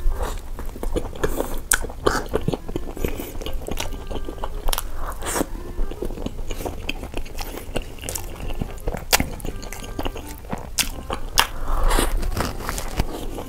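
Close-miked mouth sounds of a man biting into a bun topped with noodles and chewing it: wet chewing with many sharp clicks and smacks.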